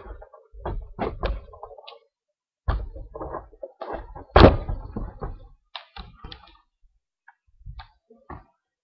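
A series of irregular knocks and thuds, the loudest a single heavy thump about four and a half seconds in, with short silent gaps between.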